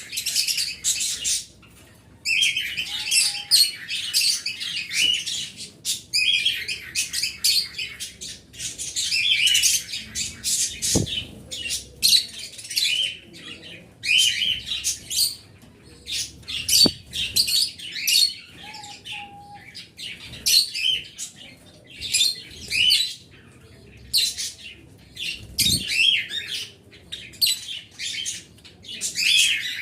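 Several small pet birds chirping and chattering: shrill, high calls come in rapid bursts of about a second each, packed close together with only short gaps.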